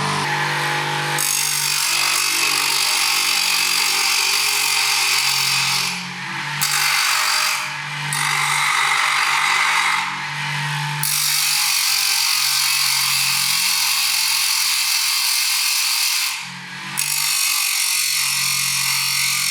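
Restored bench grinder running, with a workpiece pressed against the spinning wheel in several passes: a steady motor hum under a harsh grinding noise that drops out briefly a few times as the piece is lifted off.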